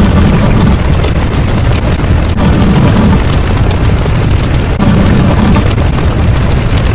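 Very loud, continuous explosion-like rumble with a heavy deep bass and hiss over it, not letting up.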